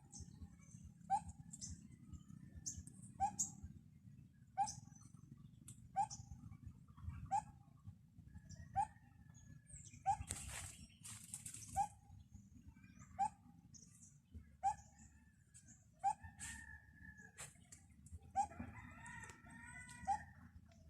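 A bird calling: a short note repeated steadily about every one and a half seconds, with a longer, drawn-out call near the end.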